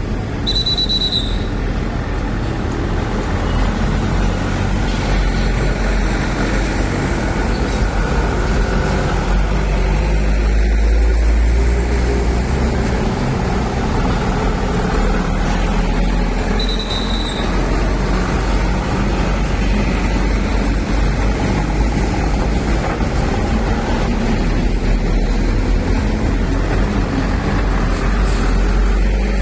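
Heavy diesel trucks loaded with sugarcane running and creeping along in a queue, with a steady low engine rumble throughout. Two short high brake squeals come about a second in and again past halfway.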